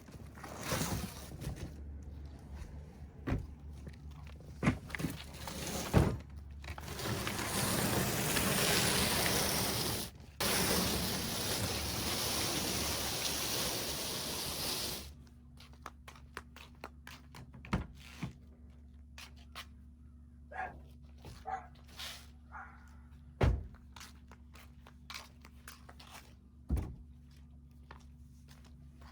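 Handling noises: scattered thunks, knocks and scrapes, with a steady rushing noise for about eight seconds in the middle that stops abruptly, leaving a low hum.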